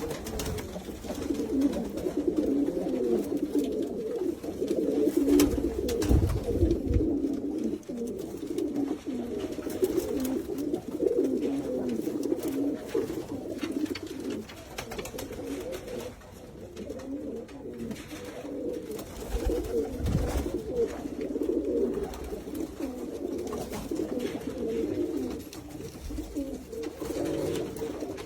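Many domestic pigeons cooing at once in a continuous, overlapping chorus, with a couple of low thumps about a quarter of the way in and again past the middle.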